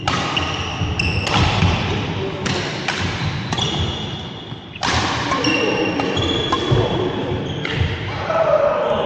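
Badminton rally: rackets striking the shuttlecock in sharp hits, with short high squeaks from shoes on the court floor.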